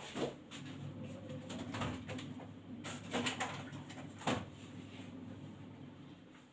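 Several light knocks of kitchen items and produce being handled on a counter, over a low steady hum.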